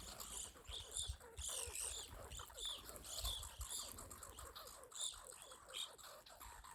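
A flock of evening grosbeaks calling at a feeder: many short, clear, down-slurred notes, several a second and overlapping, over a faint low rumble.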